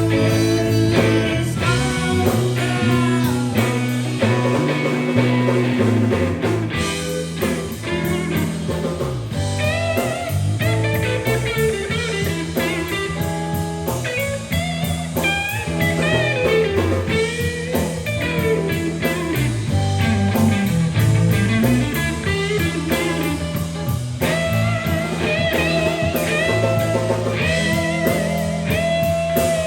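Live blues band playing an instrumental passage: an electric guitar lead with bent, wavering notes over a steady bass line and drums.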